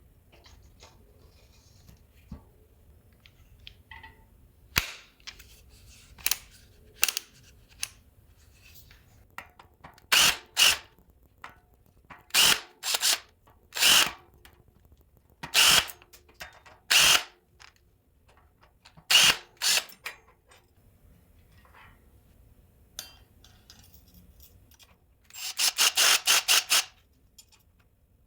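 Cordless drill/driver running in short bursts of well under a second, about a dozen times, as it drives the brake rotor bolts. Near the end it makes a longer run of rapid, evenly spaced pulses lasting about two seconds.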